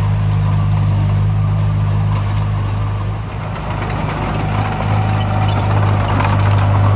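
Diesel engine of a heavy construction machine running steadily at low revs. A dense clicking rattle builds near the end.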